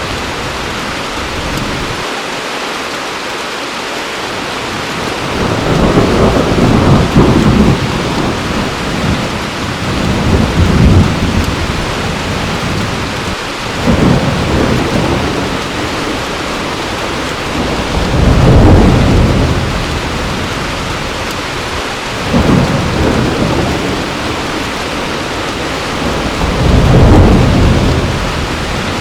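Heavy rain falling steadily, with six low rumbles of thunder, one every few seconds; the loudest come about two-thirds of the way in and near the end.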